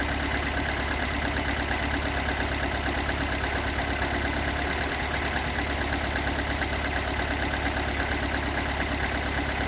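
Toyota AE86's stock 4A-GE 1.6-litre twin-cam four-cylinder idling steadily with a rough, uneven beat and a knocking sound whose cause the owner has not been able to locate.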